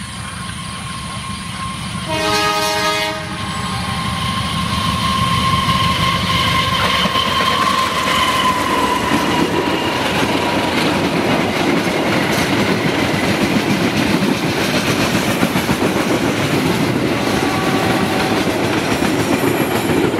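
Diesel locomotive sounding its horn once for about a second, then passing with a whine that drops in pitch about eight seconds in. After it comes the steady rumble and clickety-clack of a long train of covered freight wagons running by on the rails.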